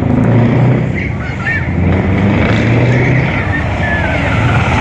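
Heavy truck diesel engines running with a low, steady drone.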